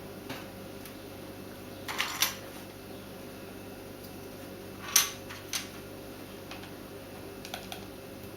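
Hard plastic clicks and taps of keyboard keycaps being handled and set down: a quick cluster about two seconds in, a sharp loud click about five seconds in with a second soon after, and a few faint ticks near the end, over a steady low hum.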